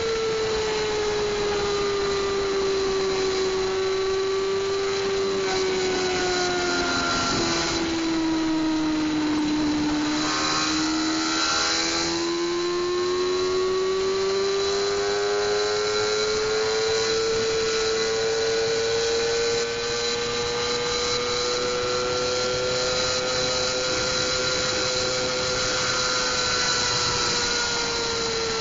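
A 600 cc inline-four sport bike engine running at very high revs, held steady near the top of its rev range at gearing-limited top speed. The pitch sags slowly about ten seconds in and then climbs back gradually, under a steady rush of wind.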